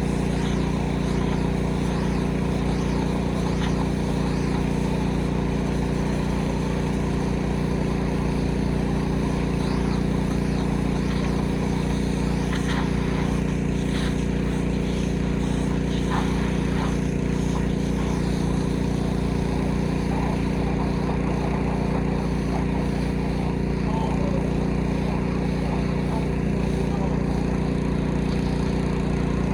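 Gas-engine pressure washer running steadily at an even pitch.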